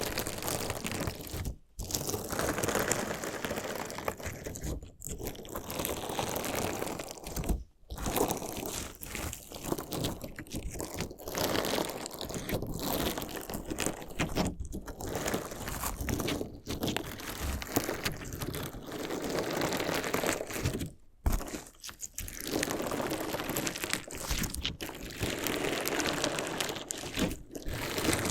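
Crunchy slime mixed with decorative stones being worked close to the microphone: a dense crackling crunch in long runs, broken by a few brief pauses.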